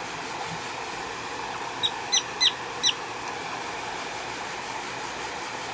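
Pet prairie dog giving four short, high, quickly falling chirps in a row, about two seconds in, over a steady hiss.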